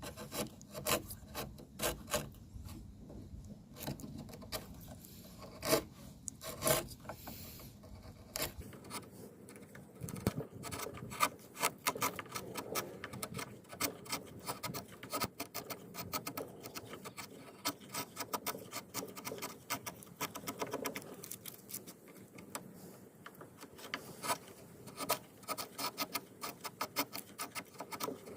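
Wood being worked and fitted by hand: irregular scraping and rubbing of wood on wood or tool on wood, with many sharp taps and clicks.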